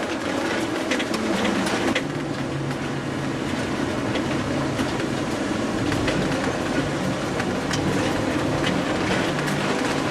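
Steady road and engine noise inside the cabin of a moving car, a low hum with scattered faint ticks.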